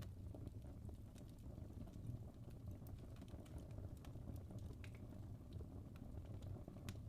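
Wood fire burning in a fireplace: a low steady rumble with scattered soft crackles and small pops from the burning logs.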